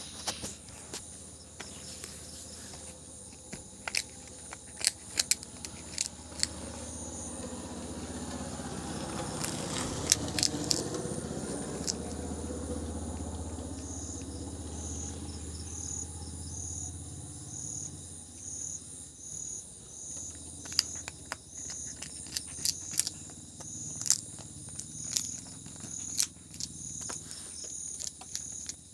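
A cat eating its food, with irregular sharp clicks from the chewing. Crickets chirp in a steady repeating rhythm, and a low rumble swells and fades in the middle.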